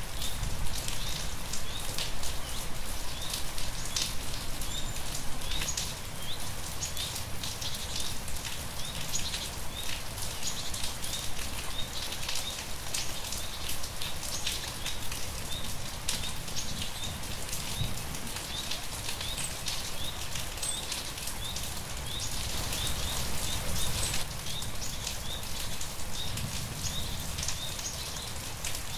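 Steady rain with many close drop strikes, and short high chirps repeating throughout.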